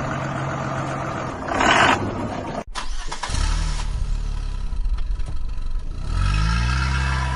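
Vehicle engine sounds: a motor running, then after a sudden cut about three seconds in, a deeper engine running that revs up about six seconds in.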